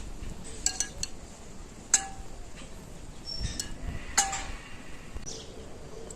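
Dishes or cookware clinking: a few light taps, then two sharper clinks about two and four seconds in, each with a brief ring.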